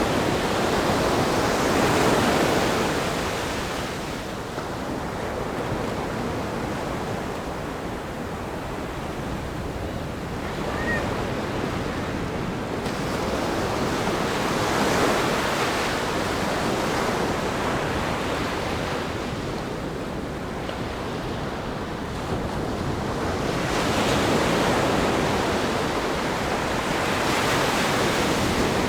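Ocean surf breaking on a rock groin and washing up a sandy beach: a continuous rush of water that swells and eases with each set of waves, rising near the start, again about halfway through, and once more near the end.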